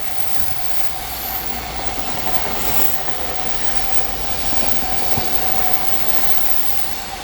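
Freight train rolling past at close range, its wagons making a steady rumble with a continuous wheel squeal and faint rail-joint clicks.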